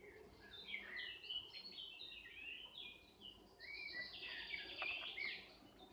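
A songbird singing a quick run of varied chirps and whistles, with a buzzy trill about four seconds in.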